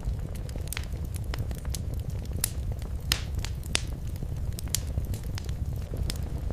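Wood fire burning in a fireplace: a steady low rumble of the flames with frequent, irregular sharp crackles and pops, a few louder pops around the middle.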